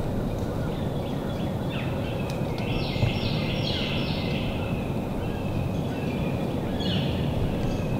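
Wild birds calling in woodland over a steady low background rumble. A short series of stepped, falling calls comes about three seconds in, and a few more near the end.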